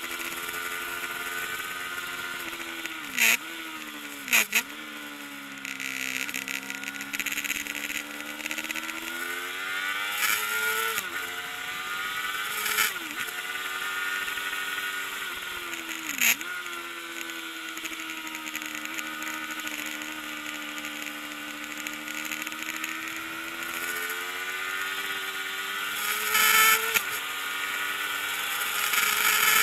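Kawasaki ZXR400 inline-four sport-bike engine racing on track, its pitch rising and falling in long sweeps with several quick sharp dips at gear changes. A few brief loud bursts of noise break in.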